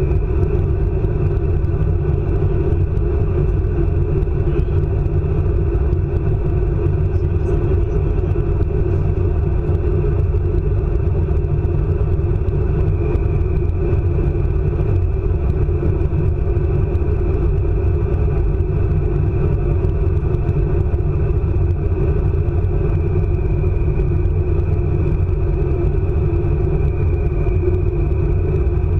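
ICE high-speed train running at speed, heard from inside the carriage: a loud, steady rumble, with a thin high whine that fades in and out a few times.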